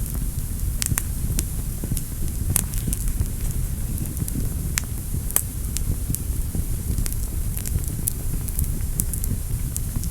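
Fire burning in a fireplace: a steady low rumble of the flames with frequent, irregular sharp crackles and pops.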